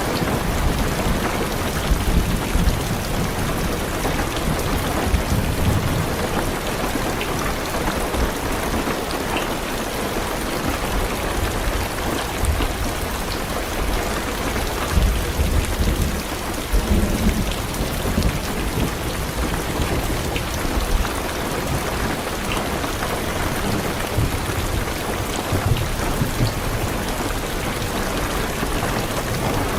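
Heavy rain falling steadily on a car's roof and windows, heard from inside the car, with low thunder rumbling and swelling several times.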